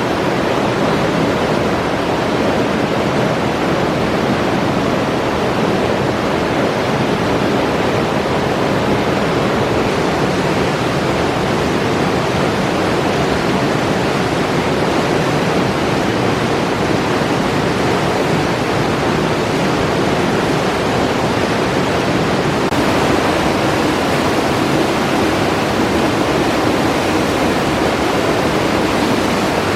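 Alpine river water rushing steadily, a loud even rush of flowing water.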